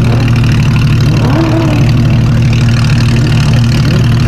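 A car engine idling steadily, a deep even drone with no revving.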